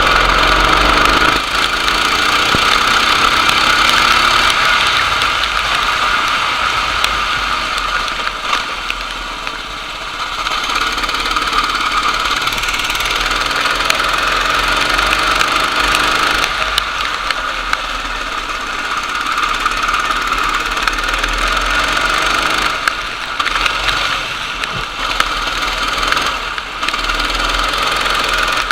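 Racing kart engine running hard, its pitch rising and falling with the throttle.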